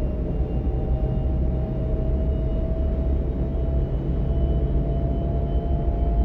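DB class 425 electric multiple unit running between stations, heard from inside the passenger car: a steady low rumble from the running gear, with a faint whine that slowly rises in pitch.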